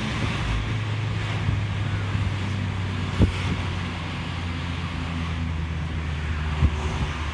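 Mazda ND Roadster's 1.5-litre four-cylinder with an aftermarket Suruga Speed PFS loop sound muffler, running steadily while driving, with wind and road noise heard with the soft top open. Two short thumps, about three seconds in and near the end.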